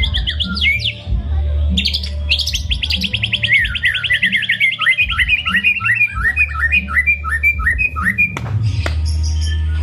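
White-rumped shama (murai batu) singing a fast run of quick repeated chirping notes. The run slides slowly down in pitch from a high trill to slower, separate notes near the end. A steady low hum runs underneath.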